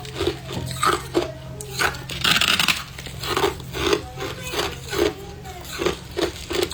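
Mouthful of powdery freezer frost being chewed, a crunch every third to half second, with a longer, louder crunch about two seconds in. A steady low hum runs underneath.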